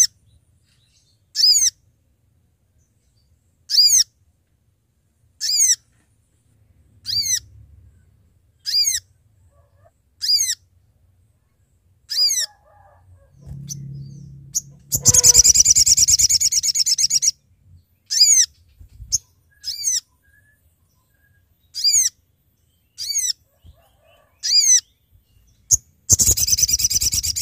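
Sogok ontong (sogon) songbird calling: short, sharp, high whistled notes that slur downward, repeated about every second and a half. Twice, once around the middle and again near the end, the notes give way to a longer, louder burst of rapid chattering song. This is a loud, persistent call used as a lure to draw a rival bird.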